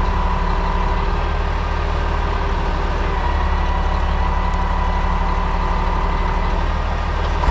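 Crane truck's diesel engine running steadily to drive the crane hydraulics as the boom lifts a beam, with a steady high whine over the low engine sound.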